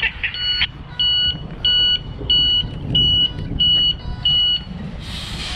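Container truck's reversing alarm beeping, about one and a half beeps a second, over the diesel engine running low. The beeps stop near the end, and a short hiss follows.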